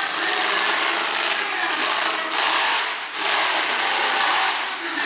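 Monster truck engine running loud, with brief drops in level about three seconds in and again near the end.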